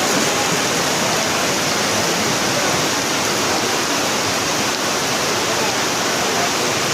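Rain falling steadily, a dense even hiss with no letup.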